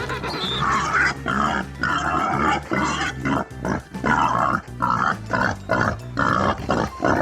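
Pigs grunting and squealing in a quick run of short, noisy calls, about two a second, over background music with a steady bass line.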